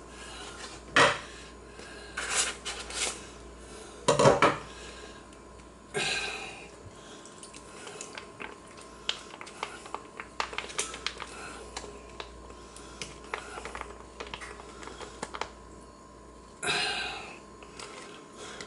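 Utensil and bowl clatter while a boil-in-bag ration is served: a spoon clinking and scraping against a bowl in many small clicks and knocks, with a few louder rustles of the ration pouch being handled and opened.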